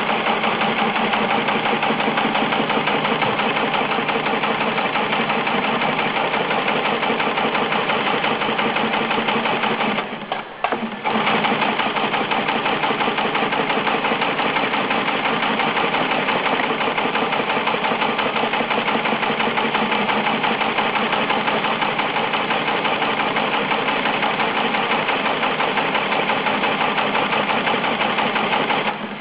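Fully automatic broom-making machine running with a fast, steady mechanical clatter. It dips briefly about ten seconds in, then carries on.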